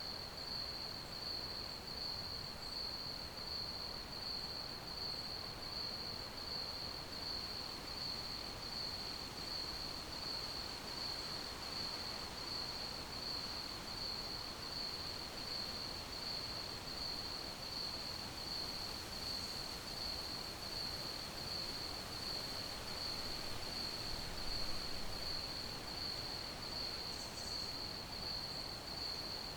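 Crickets chirping in a steady, evenly pulsing high trill over a soft background hiss.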